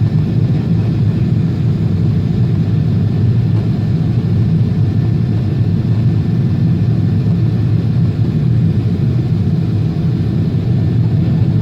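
Boeing 777 airliner cabin noise: a steady, even low rumble of engines and airflow heard from inside the cabin.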